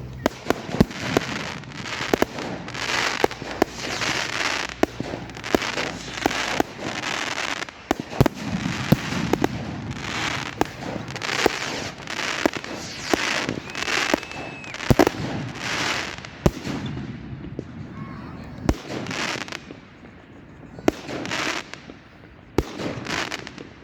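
Fireworks going off in a display: a rapid series of sharp bangs with bursts of crackle and hiss between them, thinning out a little toward the end.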